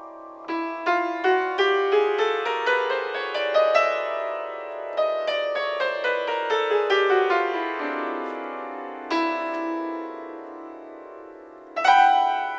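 Improvised keyboard music with a piano sound. Quick repeated notes climb and then fall back over a held low note, which steps down about two-thirds of the way in. A loud chord is struck near the end.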